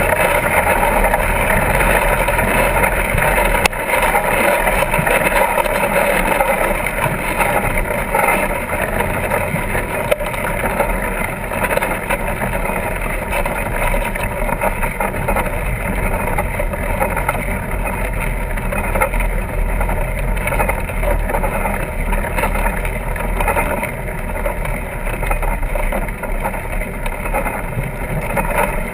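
Steady rushing rumble of a fat-tire bike being ridden along a sandy beach: wind buffeting the microphone over the rolling noise of the tyres. It keeps an even level throughout, with only small rises and dips.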